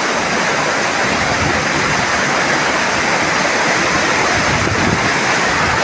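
Floodwater of a monsoon-swollen river rushing steadily, a loud, even roar of water.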